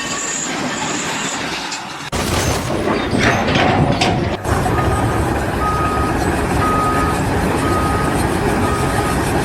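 Heavy machinery running loudly, with a vehicle's reversing alarm beeping about once a second from about halfway through.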